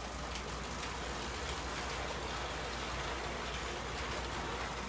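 Electric toy train running around its track: a steady rushing rattle of wheels and motor, with a steady low hum beneath.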